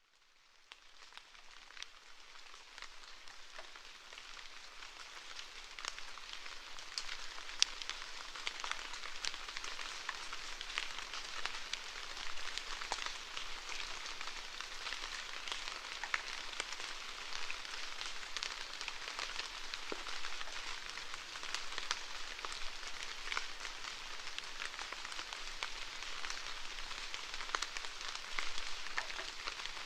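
Steady rainfall with many separate drop hits, fading in over the first several seconds and then holding steady.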